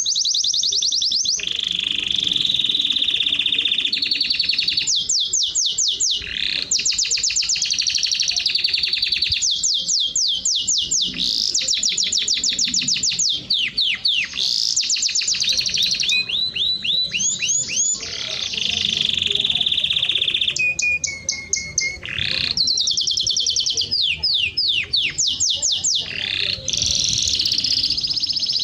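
Canary singing without a break: loud, rapid trills of quickly repeated notes, one phrase running into the next, with short pauses here and there.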